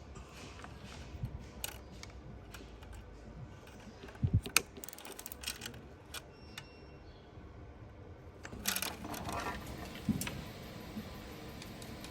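Metal hand tools and small parts clicking and clinking during hands-on work, with a few sharper knocks about four seconds in and a longer jingling clatter near the end.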